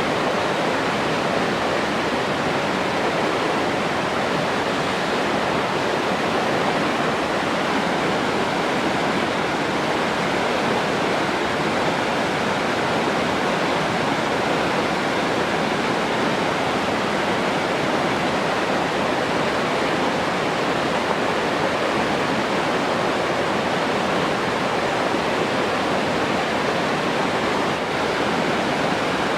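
Running water rushing steadily, an even hiss with no breaks or separate events.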